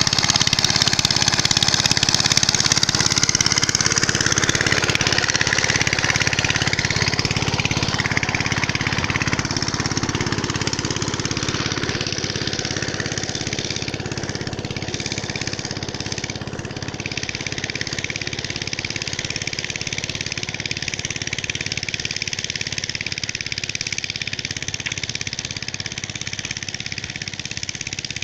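Chinese diesel engine driving a pump set, running steadily under load. It is loudest for about the first ten seconds, then settles a little quieter.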